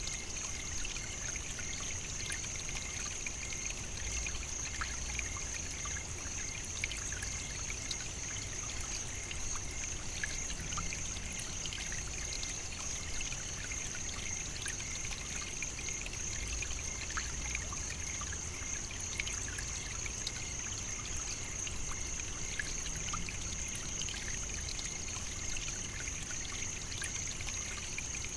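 African savannah nature ambience: a steady, unchanging high-pitched hiss with many faint scattered ticks.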